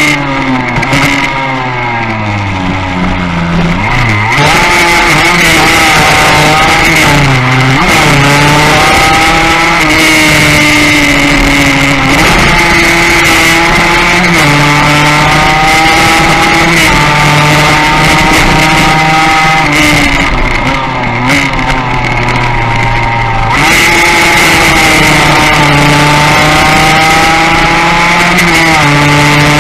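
Onboard engine sound of a classic Yamaha racing motorcycle under hard acceleration: the engine note climbs in pitch through each gear and drops back at every upshift. About twenty seconds in it eases off, the pitch falling, then it pulls hard and climbs again near the end.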